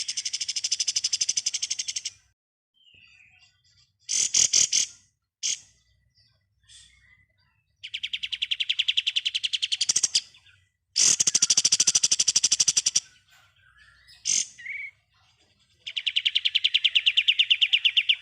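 Kapas tembak songbird singing its rapid rattling trill ('ngebren'), four high trills of about two seconds each, separated by short sharp calls.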